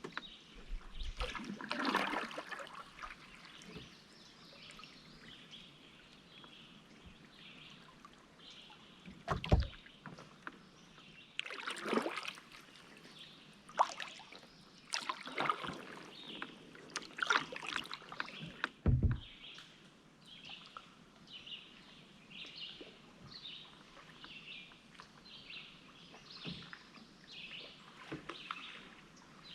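Kayak paddle strokes splashing and dripping in the water, with two sharp knocks partway through. In the last third, short high chirps repeat about once a second.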